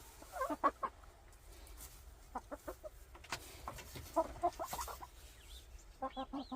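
Domestic hens clucking in short bursts of quick calls, several runs of them. This is the fussing of an agitated hen that is upset about something and is getting the rest of the flock worked up.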